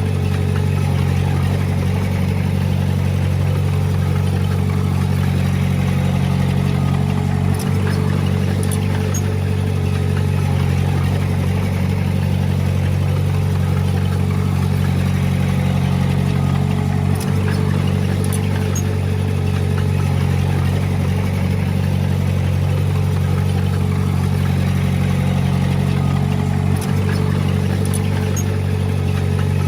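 Komatsu D20P bulldozer's diesel engine running steadily under work, with a brief dip in engine sound about every nine to ten seconds and faint clanks in between.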